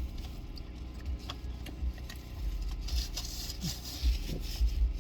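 Small clicks, scrapes and rustling from takeout food and its container being handled while eating, over a steady low rumble.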